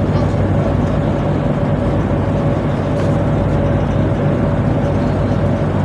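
Tugboat's diesel engines running steadily: a loud, even drone with a constant low hum and a faint higher tone.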